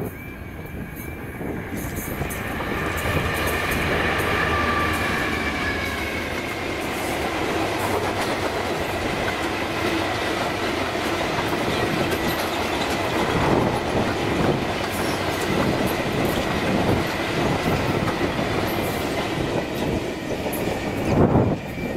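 A Class 66 diesel-electric freight locomotive passing, its engine running, followed by a long rake of open engineers' wagons rolling by. The wheels make a steady rumble with repeated clatter over the rails.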